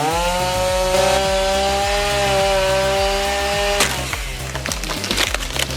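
Chainsaw running at full throttle with a steady high engine note, which cuts off suddenly about four seconds in. Sharp cracking and snapping of wood follow.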